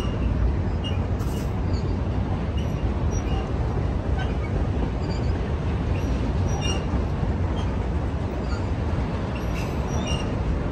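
Freight train of autorack cars rolling past: a steady low rumble of wheels on rail, with occasional faint high squeaks.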